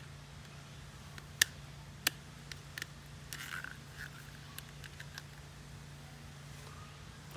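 Scattered sharp clicks and light knocks of small hard objects, the two loudest about a second and a half and two seconds in, over a steady low hum.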